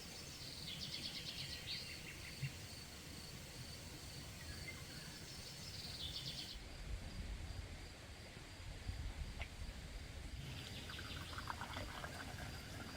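Countryside ambience: several short bursts of fast trilled chirping from birds over a steady high insect note, with a low rumble underneath.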